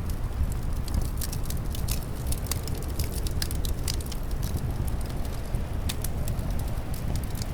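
Wood fire crackling, with frequent sharp, irregular pops over a steady low rumble of wind.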